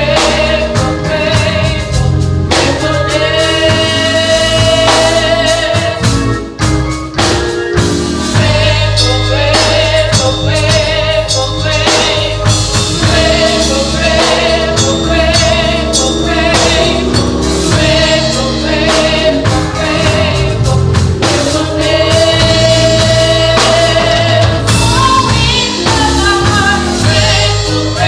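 Gospel choir singing with a band: sustained low bass notes and frequent drum hits.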